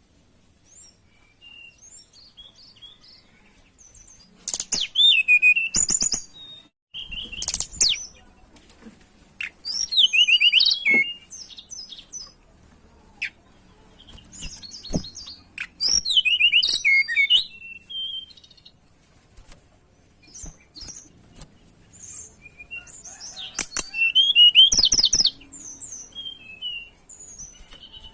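A tledekan gunung songbird in full song: loud bursts of rapid, high-pitched trilled notes lasting a second or two each, about five of them a few seconds apart, with softer single chirps between.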